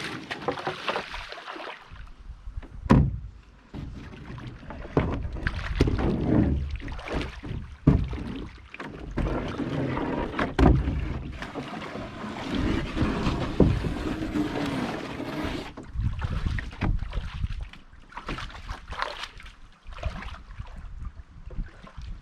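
Aluminum or composite canoe being worked through shallow rocky water: splashing and sloshing with irregular scrapes and several sharp knocks against the hull, the clearest about 3, 8 and 10 seconds in.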